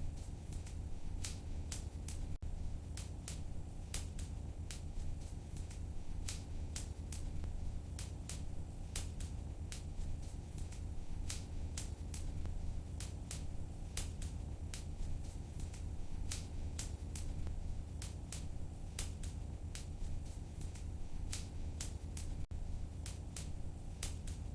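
Wood fire in a fireplace crackling, with frequent sharp pops and snaps, a few each second, over a steady low rumble.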